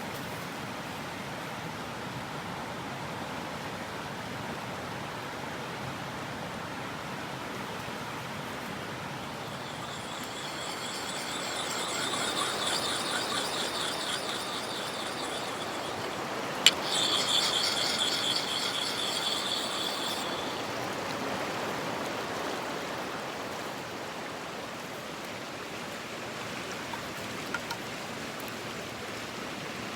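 Mountain stream running steadily. From about ten to twenty seconds in, a high squealing scrape with a fast rhythmic flutter rises over the water, cut by one sharp click about halfway through.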